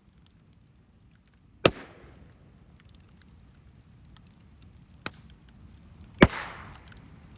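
Bonfire crackling, with three sharp bangs as things burst in the fire: a loud one about a second and a half in, a smaller one about five seconds in, and the loudest just after six seconds, which trails off briefly.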